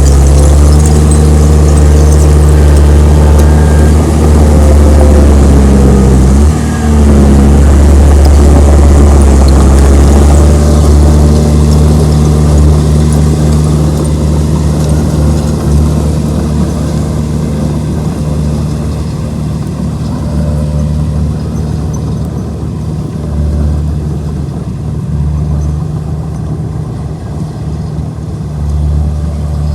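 Komatsu D31P bulldozer's diesel engine running steadily, with a brief dip in pitch about six seconds in. It is loud for the first ten seconds or so, then settles to a lower level.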